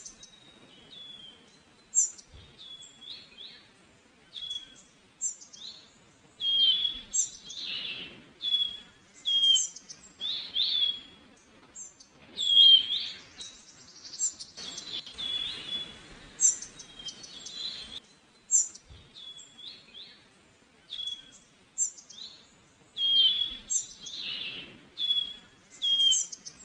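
Small songbirds chirping, a series of short high calls and quick chirps repeating every second or so.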